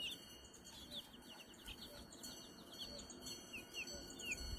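Silkie chicks peeping: many short, high, falling peeps, several a second, overlapping from more than one chick.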